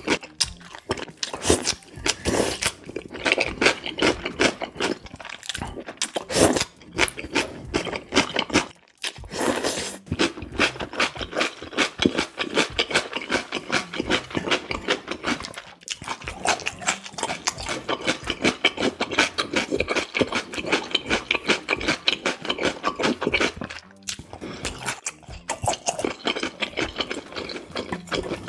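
Close-miked chewing and mouth sounds of someone eating seasoned raw beef (yukhoe) and radish: a rapid, continuous run of wet chewing strokes, with a short pause about nine seconds in.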